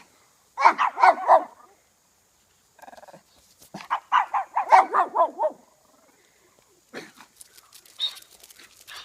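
Dog barking in quick runs of several barks, a burst about a second in and a longer run from about four to five and a half seconds. Fainter knocks and rustling follow near the end.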